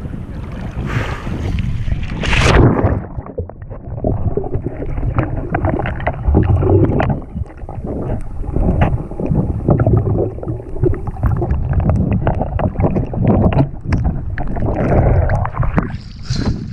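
Sea water splashing as the microphone goes under, about two and a half seconds in. Then comes muffled underwater sloshing and gurgling with many small clicks, and the sound clears again as it comes back out near the end.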